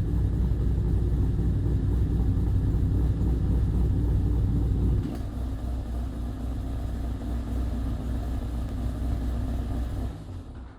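Cammed, supercharged V8 exhaust held at steady raised revs through a 3-inch stainless Xforce Varex system. It is loud at first, then drops suddenly to a quieter, steady note about five seconds in, as when the Varex valve closes. The sound falls away near the end.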